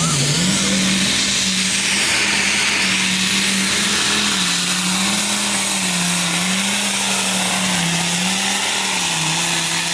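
Modified pulling tractor's engine running flat out under load, loud and continuous, its pitch stepping up right at the start and then wavering up and down several times.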